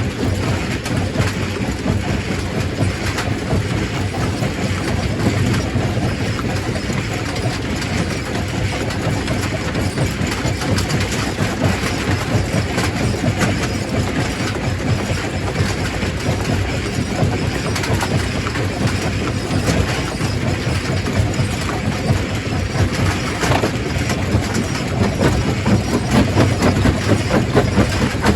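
Quarry primary rock crusher running, with a continuous clatter of many small rock impacts over a steady low machinery hum. It gets slightly louder near the end.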